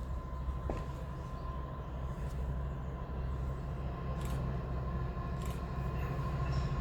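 Low rumble of an approaching train, slowly growing louder, with a faint steady high whine and a few light clicks.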